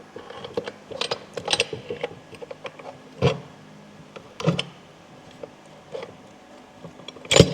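Steel transmission gears, chain and selector forks clicking and clunking as they are handled and settled into the gearbox casing, with a few heavier knocks and a sharp metallic knock near the end as the loudest.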